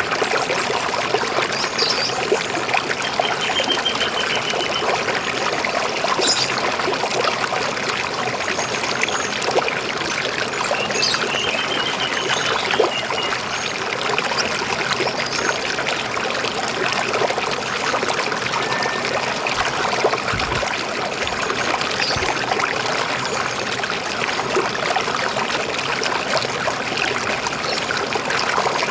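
River water flowing and gurgling steadily, with a few birds chirping, including a couple of brief trills.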